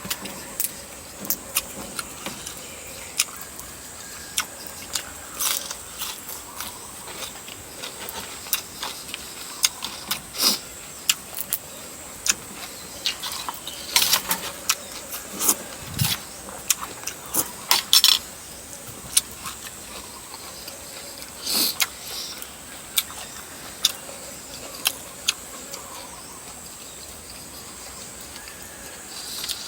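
Eating sounds: irregular sharp clicks and wet smacks of chewing and sucking on chicken feet, with utensils now and then clinking on the dish.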